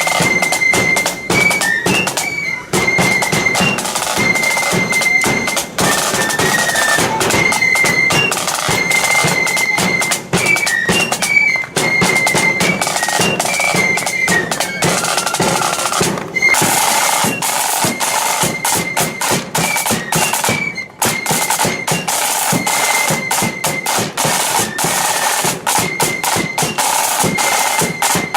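Blood-and-thunder flute band playing a march: shrill flutes carrying the melody over rapid snare drumming and bass drum beats, with a few brief breaks in the tune.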